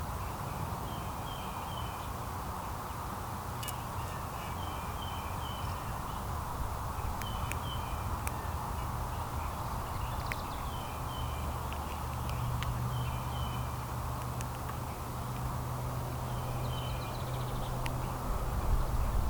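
Small birds chirping in short runs of quick repeated notes, scattered across the whole stretch, over a steady low rumble.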